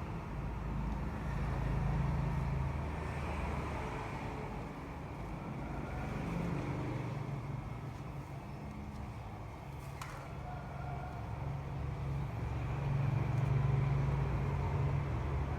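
Motor vehicle running: a low engine hum that rises and falls a few times over a steady rumble.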